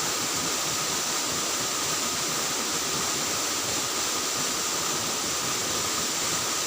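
Steady rush of flowing river water, with a constant high-pitched drone over it.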